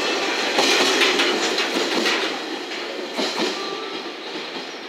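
Freight train's container flatcars rolling past and moving away: wheels clack over rail joints several times over a steady rolling rumble. The sound grows fainter as the end of the train recedes.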